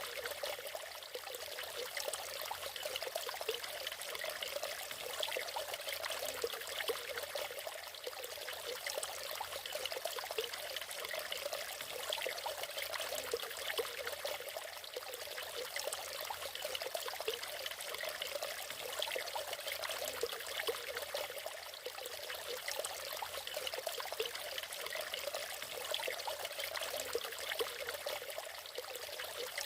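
Water of a small natural waterfall splashing and trickling over rocks, steady and continuous.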